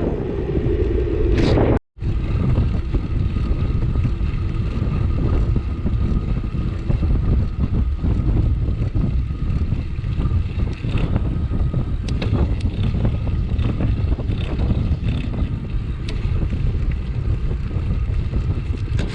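Steady wind rumble on the microphone of a GoPro riding on a moving bicycle, breaking off for a moment about two seconds in.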